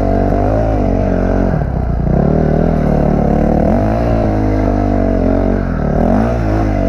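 Engine running under way, revving up and down so that its pitch rises and falls over and over.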